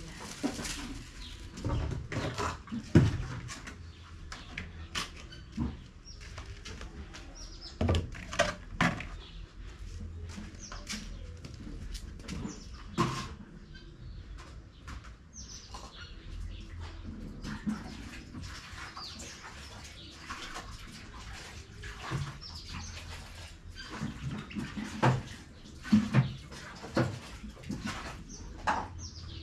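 Chickens chirping in short calls, with irregular knocks and clatter from the chicken drinkers being handled and cleaned; the loudest knock comes about three seconds in.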